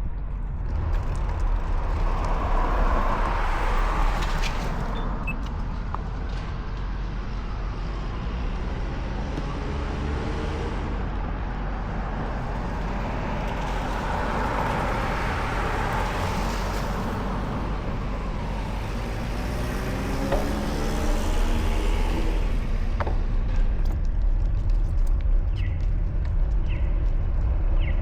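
Road traffic: cars passing one after another, each swelling up and fading away, some with a gliding engine note, over a steady low rumble.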